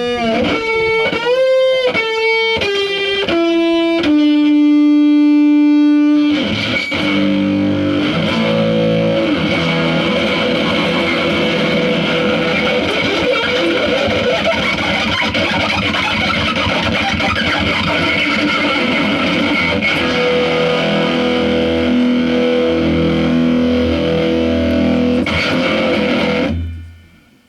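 Electric guitar through distortion and effects: a run of held single notes stepping down in pitch for about six seconds, then a dense distorted wall of sound over a low bass line that cuts off suddenly near the end.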